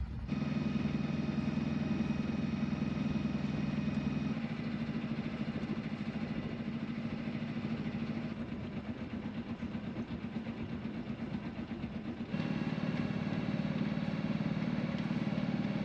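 Sailboat's engine running steadily at low revs while motoring. It eases slightly about four seconds in and grows louder again near the end.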